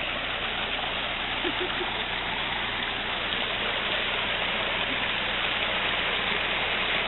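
Rushing water of a stream running steadily, growing a little louder toward the end.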